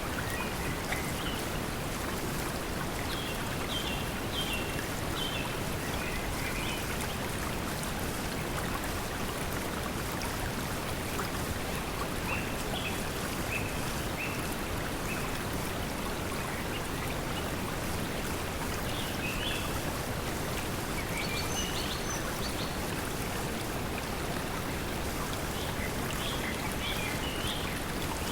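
Steady pink noise blended with flowing water, with birds chirping in short bursts now and then over it.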